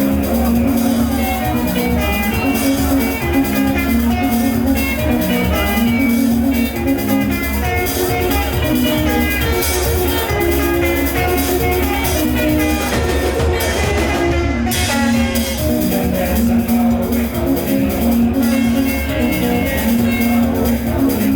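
Live band music: plucked electric guitar lines over drum kit and bass at a steady beat.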